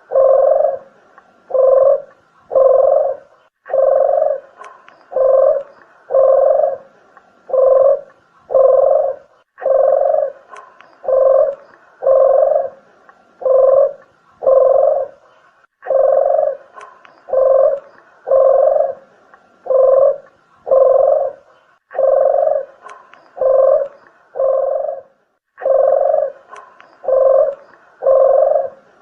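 Dederuk dove (puter geni) cooing in a steady run of low, even-pitched coos, one every second or so in short phrases with brief breaks between them, as used for a bird-luring call.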